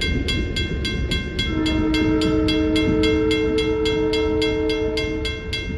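A grade crossing's mechanical bell (a WCH first-generation mechanical bell) rings steadily at about four strikes a second over the low rumble of a passing train. About a second and a half in, the train's air horn sounds a held chord for roughly four seconds.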